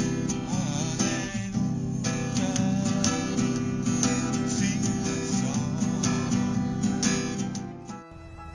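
Background music led by a strummed acoustic guitar. It changes abruptly to a quieter passage near the end.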